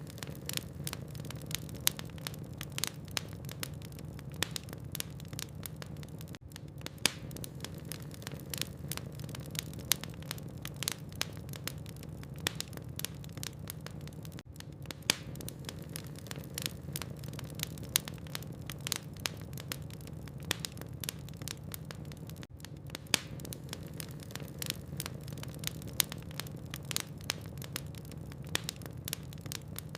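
Wood logs burning in a fireplace, crackling with many irregular sharp pops and snaps over a steady low rumble of the fire.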